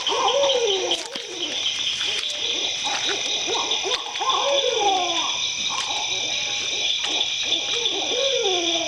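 Barred owl hooting its "who cooks for you" call: a few phrases of hoots, each ending in a long, downward-sliding note. A steady, high-pitched drone runs underneath.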